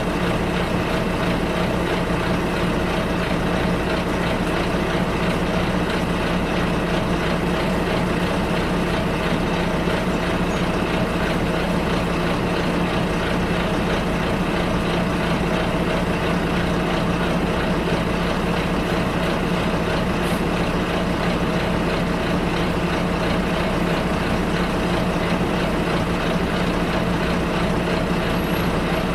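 Steady engine drone and road noise heard from inside a bus in motion, with an even hum that does not change for the whole stretch.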